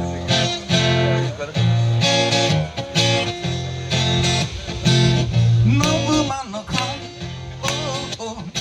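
Live guitar music: chords strummed in a steady rhythm, with a wavering melody line over them in the second half.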